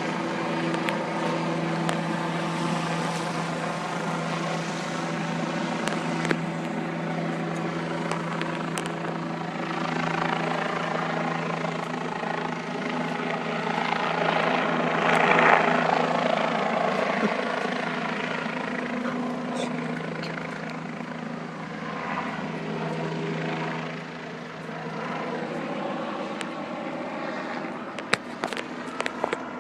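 Sheriff's office helicopter flying, a steady rotor and engine drone that swells to its loudest about halfway through and then eases off. A few sharp clicks come near the end.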